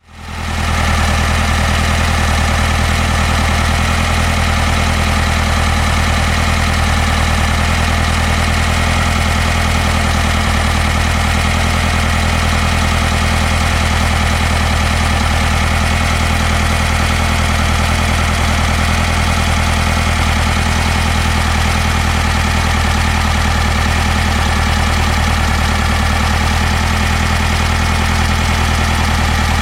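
1966 Volkswagen Beetle's air-cooled flat-four engine idling steadily at an even, unchanging speed, fading in over the first second.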